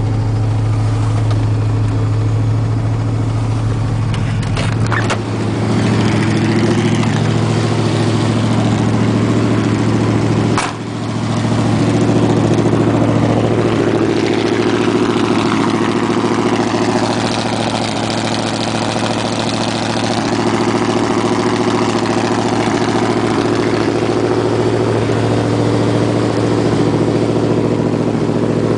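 Chevy 350 small-block V8 with a big cam, straight-piped through headers, idling cold while it warms up at about −25. The idle runs steadily, with a brief dip and a sharp click about five seconds in and again about eleven seconds in.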